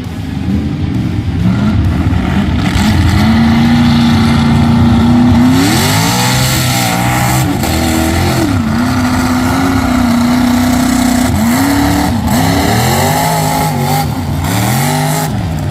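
Mud bog truck engine revving hard under load, holding steady at high revs, then climbing and falling in pitch several times, about six seconds in and again near the end.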